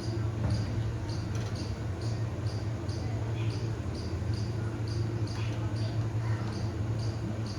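Small pet parrot giving short high chirps in a steady run of about two a second, with a few fainter calls between, over a steady low hum.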